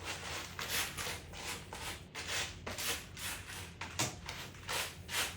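Towel rubbing a freshly bathed pet's wet fur dry, in quick repeated strokes about two or three a second.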